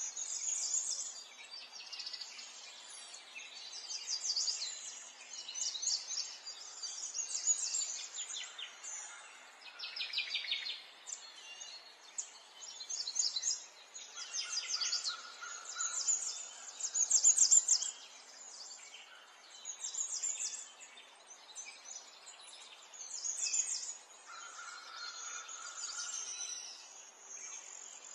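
Small birds chirping, short runs of rapid high chirps repeating every couple of seconds over a faint steady hiss.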